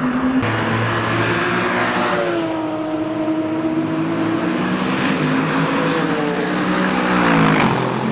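Porsche 997 Turbo's twin-turbo 3.6-litre flat-six through Milltek straight pipes, running loud with a sudden change in pitch about half a second in, then a steady engine note that falls away near the end as the revs drop.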